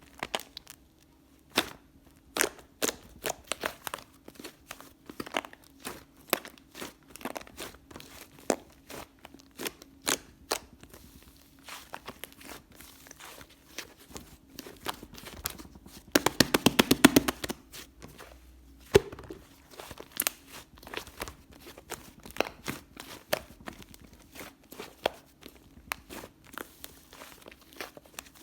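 White whipped-cream-textured slime being squished and poked by hand, giving scattered sticky clicks and pops, with a dense, rapid run of louder clicks a little past the middle.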